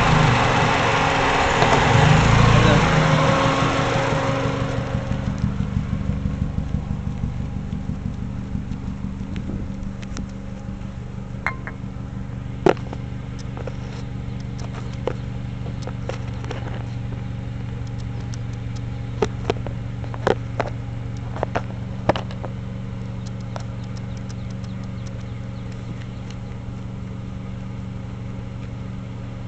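Mazdaspeed Protege's turbocharged 2.0-litre four-cylinder idling steadily, with Seafoam just drawn in through the brake booster vacuum line. The sound is loud at first and fades over the first several seconds, and a few sharp clicks come through near the middle.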